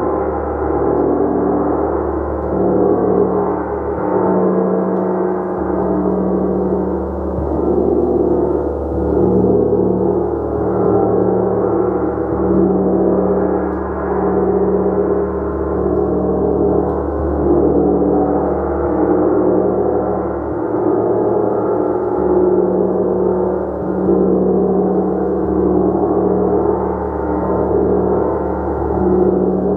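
Gong played continuously, its sustained shimmering wash of overlapping tones with a deep hum swelling and fading gently every couple of seconds.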